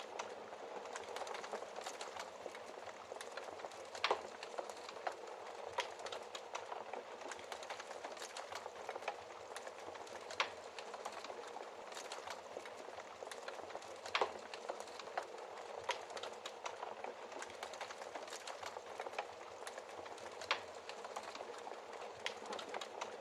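Wood fire in a fireplace burning with a steady hiss and irregular crackles, a few louder pops standing out among them.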